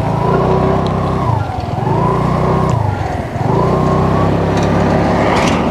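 Motorcycle engine accelerating through the gears. Its pitch climbs, drops at a shift about a second and a half in, climbs again, drops at another shift around three seconds in, then climbs and holds.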